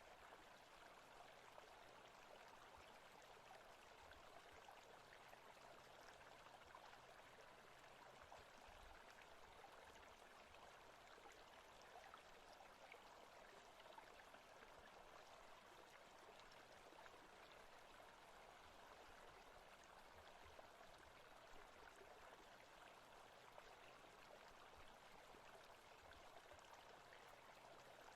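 Faint, steady forest ambience: an even, unbroken rush like running stream water.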